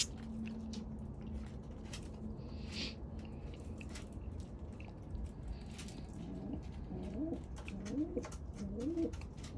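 Domestic pigeon cooing, starting about two-thirds of the way in: a run of low rising-and-falling coos, a little under two a second. Scattered light clicks and taps before it.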